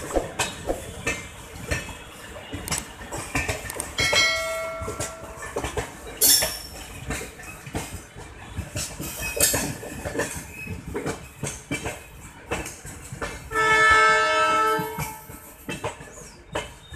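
An express train's coaches rolling past over points, their wheels clattering and knocking over the rail joints, with one loud clank about 6 seconds in. A train horn sounds twice: briefly about 4 seconds in, and longer and louder from about 13.5 to 15 seconds.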